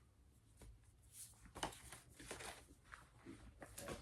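Faint handling noise from a box set's cardboard and paper contents: a few soft rustles, scrapes and light clicks.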